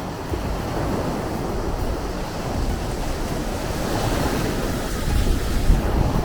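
Sea waves breaking and washing in as a continuous surf hiss over a low rumble, with one wave swelling about four seconds in.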